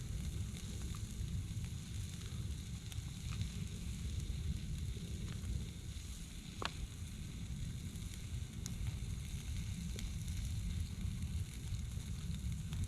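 Peppered steaks sizzling faintly in a frying pan, with a few small pops, the clearest about seven seconds in, over a steady low rumble.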